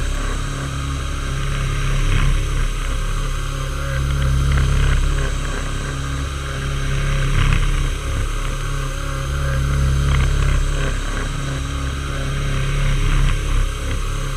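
Metalworking machine tool running steadily while machining a metal part: a low motor hum with a hiss of cutting above it, the level swelling and easing every two to three seconds.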